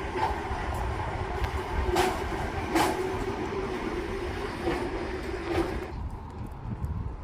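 A vehicle running with a steady hum and a few sharp clicks, over low rumble; the hum cuts off about six seconds in.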